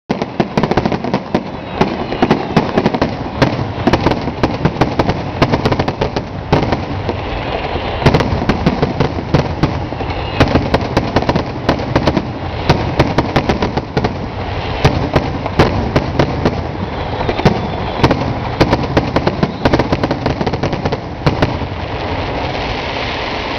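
Fireworks finale: a dense, unbroken barrage of aerial shells bursting. Sharp reports come many times a second over a steady rumble of overlapping bangs.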